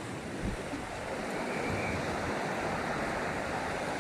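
Ocean surf washing onto the shore, a steady rushing noise that swells slightly about a second in.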